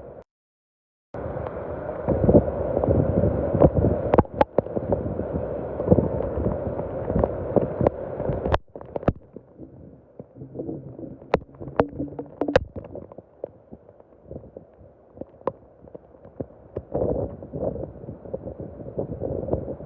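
Heavy rain with running, gurgling water: a steady rushing noise peppered with sharp drop hits. It cuts out briefly just after the start and again about eight and a half seconds in, and is quieter after the second break.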